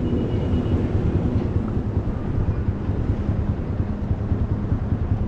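Wind buffeting the microphone as a steady low rumble, over a faint steady hum from a vehicle.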